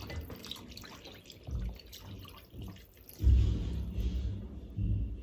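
Liquid splashing and dripping as broth is transferred into a pot, with a few dull low thumps, the loudest about three seconds in.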